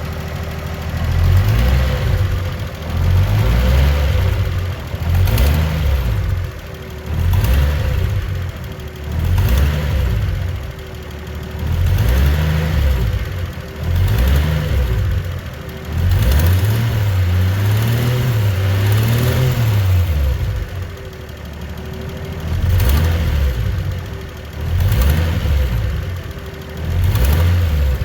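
Toyota 1JZ-GTE VVTi turbocharged straight-six revved repeatedly from idle, about a dozen blips of the throttle, each rising and falling back, with one longer held rev midway.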